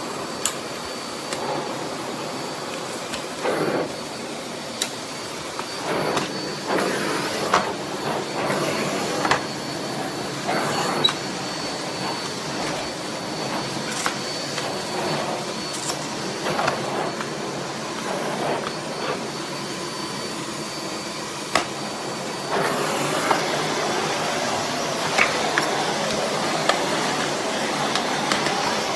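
Miele Blizzard CX1 bagless canister vacuum running, with a faint high motor whine and scattered knocks and clicks from the floor head. It grows louder about three quarters of the way through.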